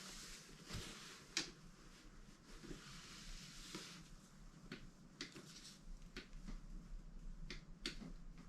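Faint, scattered clicks and scrapes of a wrench being worked on a dirt bike engine's lower drain bolts, with light rustling between them.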